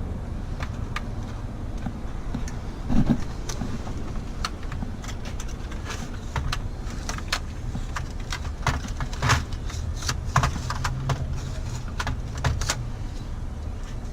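Marking tape being peeled off the face of a truck instrument cluster: a string of short crackles and clicks, with a thump about three seconds in, over a steady low background hum.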